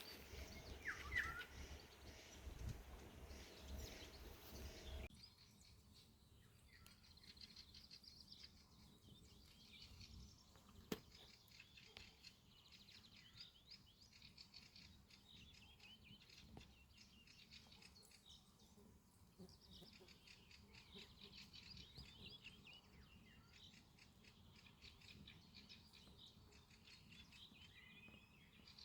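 Faint birdsong: many small birds chirping and twittering in a continuous high-pitched chorus. A low rumbling noise is heard under the first few seconds and stops abruptly, and a single sharp click comes about eleven seconds in.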